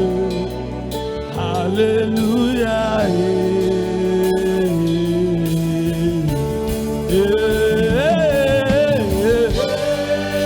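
Gospel worship music: voices singing long, held and sliding melodic lines over a sustained keyboard and bass accompaniment.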